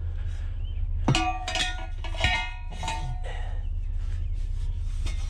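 Pieces of scrap metal being handled and set down, clanking with a ringing metallic tone: several sharp clanks from about a second in to the middle, over a low steady hum.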